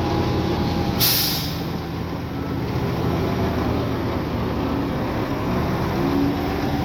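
Heavy diesel engine of earthmoving machinery running steadily, with a short hiss of released air about a second in.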